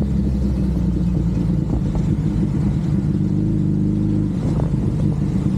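Suzuki Hayabusa's inline-four engine running as the motorcycle is ridden, a steady engine note that shifts in pitch about four seconds in.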